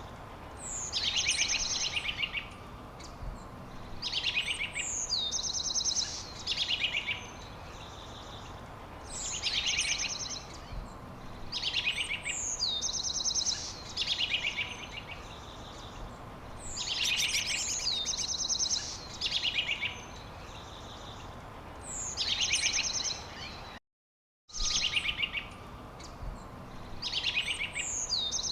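A songbird singing the same short phrase over and over, about every two seconds: a sliding whistled note followed by a fast, high trill. The sound cuts out completely for about half a second near the end.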